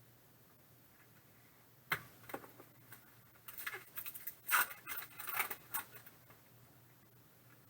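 Trading cards handled: a sharp click about two seconds in, then a run of quick ticks and rustles lasting a couple of seconds.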